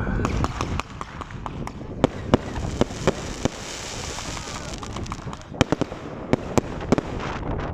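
Fireworks going off: irregular sharp bangs and pops, bunched more closely about six seconds in, over a steady background hiss.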